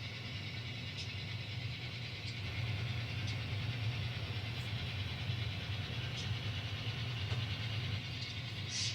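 N scale model diesel locomotive's engine sound running steadily as the train moves, with a few faint clicks.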